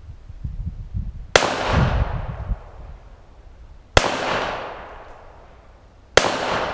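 Three shots from a .45 caliber 1911 pistol, a couple of seconds apart, each a sharp crack with a long fading echo.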